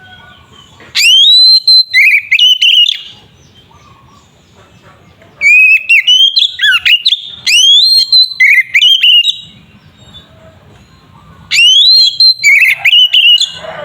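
Oriental magpie-robin (kacer) singing loud whistled song in three phrases with short pauses between them. Each phrase opens with a rising whistle and runs into quick, varied notes.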